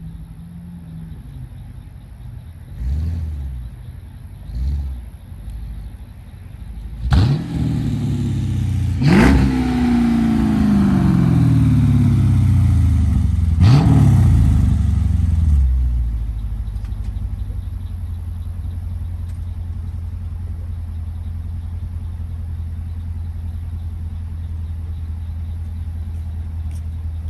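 2017 Dodge Durango R/T's 5.7-litre Hemi V8 exhaust, with an X-pipe and the rear mufflers deleted, blipped twice at idle. Then it is revved hard three times, the note falling away after each rev, and it settles back to a steady idle.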